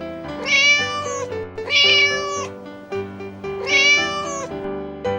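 Domestic cat meowing three times, each meow under a second and bending up then down in pitch, over steady background music.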